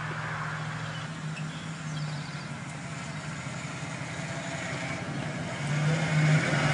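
Off-road vehicle engine running steadily, growing louder near the end.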